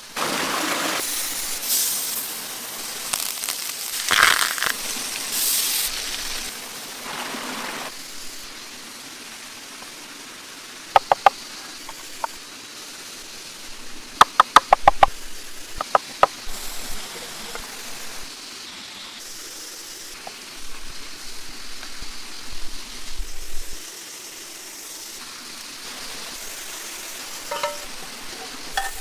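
Food sizzling in a hot pan, loudest in a few hissing surges over the first several seconds, with quick runs of sharp ringing clicks, like metal tapping, about a third and halfway in, then a quieter steady hiss.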